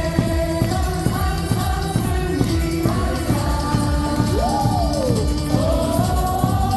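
Stadium crowd singing a baseball cheer song in unison over amplified music with a steady drum beat.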